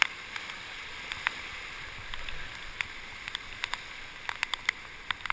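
Rushing river whitewater: a steady hiss of moving water with many scattered sharp ticks and splashes, more of them in the second half.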